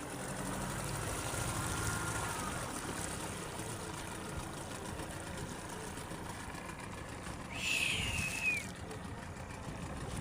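Boat engine running steadily under way, with a hiss of water and wind over it. About eight seconds in, a brief high sound that falls in pitch cuts through for about a second.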